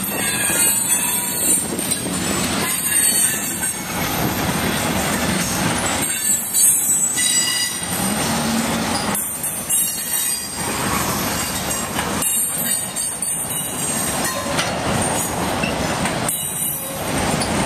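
Freight train cars rolling past on steel rails, with a continuous rumble and a high steady squeal from the wheels. The sound swells and dips every few seconds as the cars go by.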